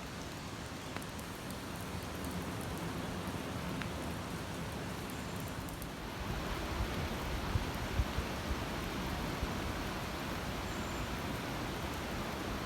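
Steady typhoon rain falling, an even hiss with a low rumble beneath, growing a little louder about halfway through.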